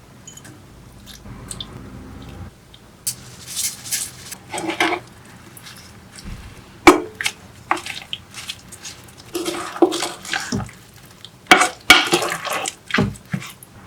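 Kitchen utensils clinking and scraping against dishes and cookware in short, irregular bursts, with a couple of sharp clinks.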